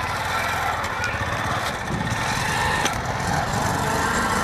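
Motorcycle engine running steadily while riding, over a continuous rumble of road and street noise.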